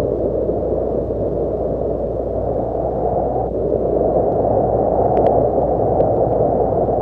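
Horror ambience sound effect: a steady, dark, muffled rumbling noise with no clear pitch, and a few faint clicks about five seconds in.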